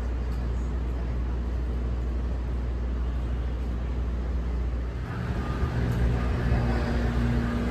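Steady low rumble of city traffic. It grows rougher and louder about five seconds in, as a vehicle engine hum comes in.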